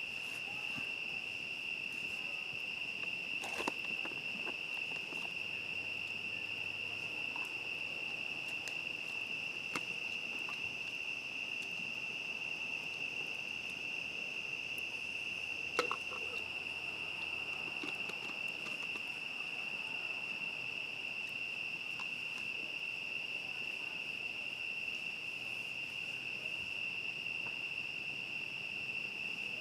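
Steady chorus of crickets at one high pitch, with a few sharp pops and crackles from a campfire, the loudest a little past halfway.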